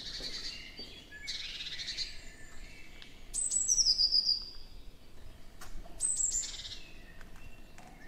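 Songbirds singing: several short trilled phrases, the loudest a quick run of notes falling in pitch about halfway through.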